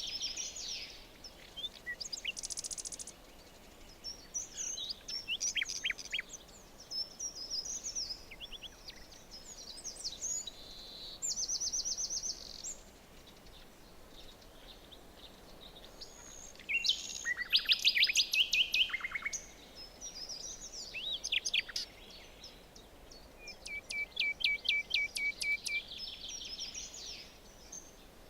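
Several forest songbirds singing and calling, with different songs overlapping, among them fast trills of rapidly repeated notes, over a faint steady background hiss.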